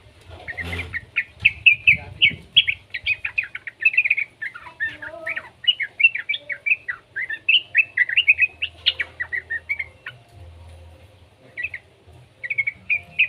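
Young yellow-vented bulbul singing a rapid, bubbly chattering run of quick chirps, then pausing and giving a few short phrases near the end.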